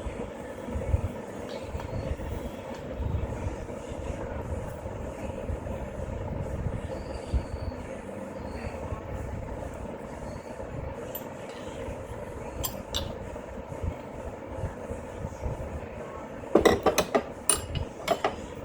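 Steady low rumble in the background, then near the end a quick run of about half a dozen sharp metallic clinks and knocks, from hand tools working on the engine's bracket bolts.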